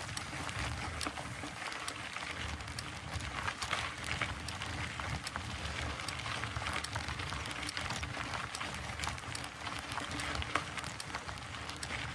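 Mountain bike rolling along a dirt trail: tyres crunching over gravel and loose debris with a steady run of small clicks and rattles over a low rumble.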